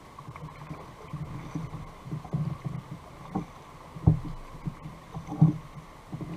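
Plastic fishing kayak on the water, with irregular knocks and thuds against the hull over water sloshing; the hardest knocks come about four and five and a half seconds in.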